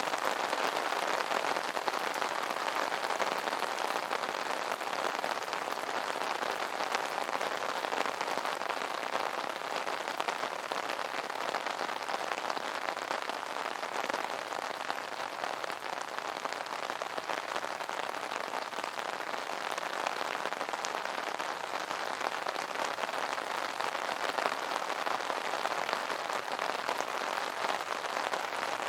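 Steady rain falling on an umbrella: many small drop hits blending into an even hiss, with no let-up or change.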